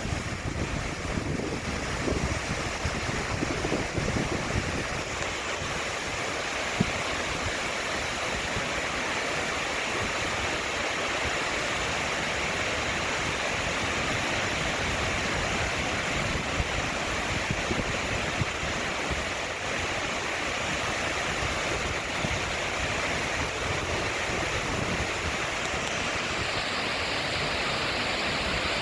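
Ceunant Mawr waterfall in full spate after heavy rain: a steady, unbroken rush of falling water.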